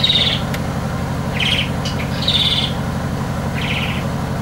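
A bird chirping in short trilled bursts, four in the space of a few seconds, over a steady low hum.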